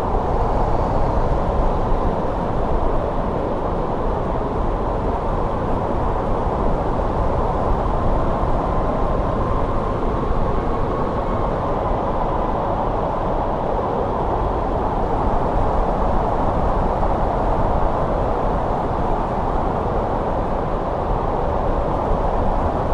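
Steady winter wind rushing without pause, deep and full, with a faint whistle that rises slightly in the middle.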